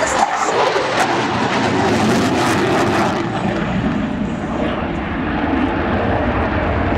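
USAF F-16C Fighting Falcon's jet engine roaring as the fighter banks through a tight high-G turn. About three seconds in the hissy top end drops away, leaving a deeper, duller rumble.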